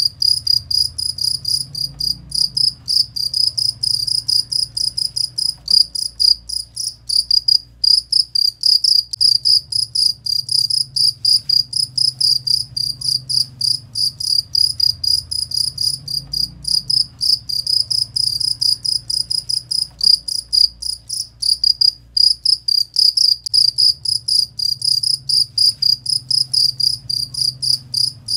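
Cricket chirping in a fast, unbroken train of short, high chirps, about four a second, over a faint low hum.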